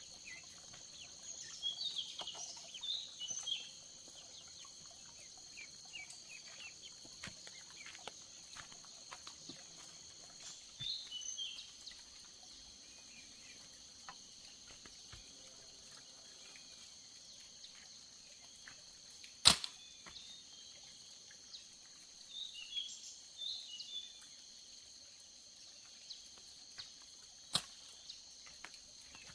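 Steady high-pitched drone of insects at two pitches, with clusters of short bird chirps. A sharp click sounds twice: loudly about two-thirds through, and again near the end.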